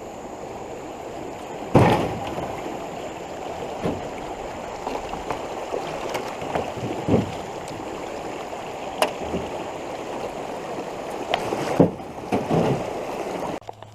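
Fast flood-swollen creek water rushing steadily around a canoe, with several sharp knocks, the loudest about two seconds in and near the end. The sound cuts off abruptly just before the end.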